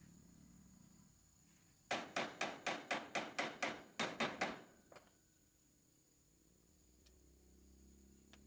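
Rapid hammering: about a dozen sharp blows, roughly four a second, with a short break before the last three, then one lighter knock.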